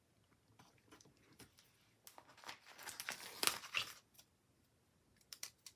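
Paper sticker sheet crinkling and rustling as stickers are peeled off and pressed onto planner pages, loudest about two to four seconds in, with light scattered ticks and taps around it.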